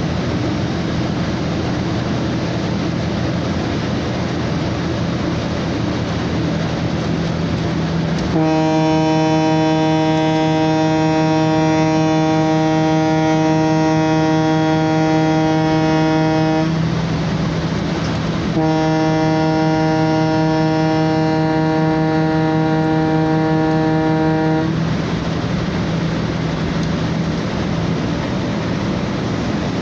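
Ship's horn sounding two long blasts, the first about eight seconds and the second about six, over the steady drone of the vessel's engines as it leaves port.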